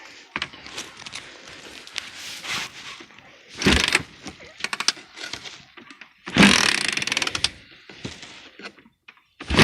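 Two brief bursts of mechanical clatter, each about a second long, about a third and two thirds of the way in: an old Honda 4Trax ATV engine being kicked over in the cold without catching.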